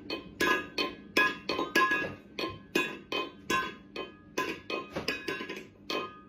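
Rapid, evenly spaced clinking strikes, about three a second, each with the same bright ringing pitches, like glass tapped in a musical loop.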